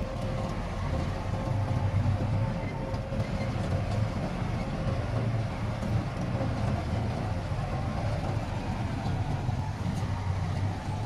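Heavy diesel engine of earthmoving machinery running steadily: a deep, continuous rumble with a faint steady whine above it.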